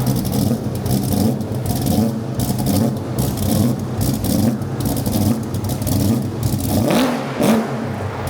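Supercharged engine of a 1957 Chevy 3100 pickup idling with an uneven, lumpy beat. About seven seconds in it picks up briefly, as if blipped.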